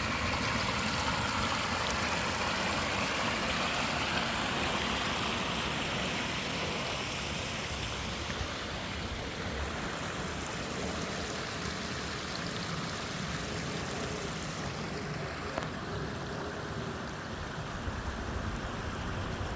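Steady rush of running water from a stream or waterfall, growing quieter about fifteen seconds in.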